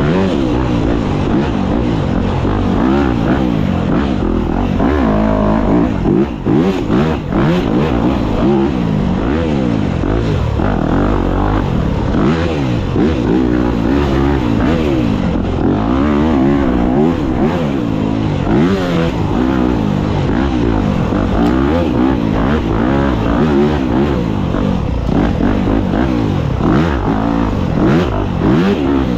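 Dirt bike engine revving up and down over and over as the throttle is worked on a twisty woods trail, easing off briefly about six seconds in.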